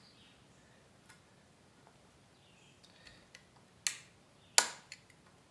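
A few sharp taps and clicks in a quiet room. The two loudest come close together a little after the middle, less than a second apart.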